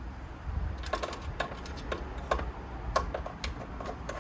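Irregular small clicks and light taps of hard plastic and metal parts being handled, several a second starting about a second in, as the iMac's internal antenna and its cable are worked loose.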